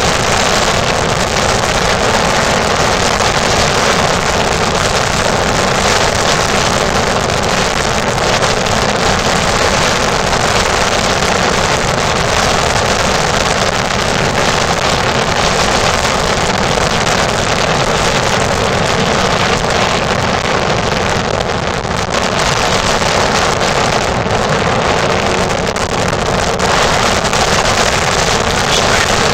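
Motorboat under way, its engine running steadily, with wind buffeting the microphone throughout.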